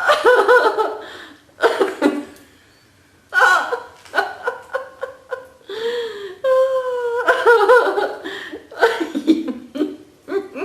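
Deliberate laughter-yoga laughing: loud voiced laughter in pulsing bursts, with a short pause about two seconds in before it starts up again.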